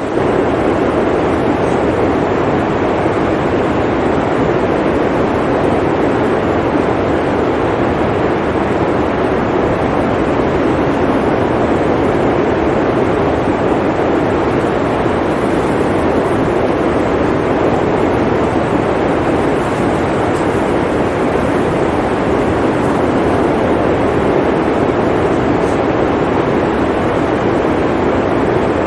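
Steady blizzard wind: an even, rushing noise with most of its weight in the low-middle range and no gusts, tones or beats.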